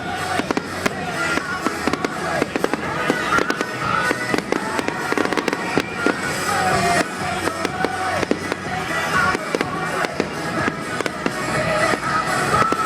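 Fireworks going off in a dense, rapid string of bangs and crackles, with music playing alongside.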